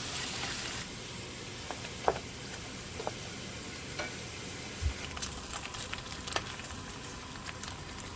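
Food frying in a pan with a steady sizzle, and occasional sharp clicks and taps.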